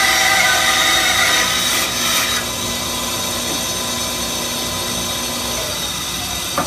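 Rikon 10-305 10-inch bandsaw running and cutting through a 2x2 oak leg, a steady motor hum under the harsher noise of the blade in the wood. The cutting noise eases about two seconds in while the saw keeps running.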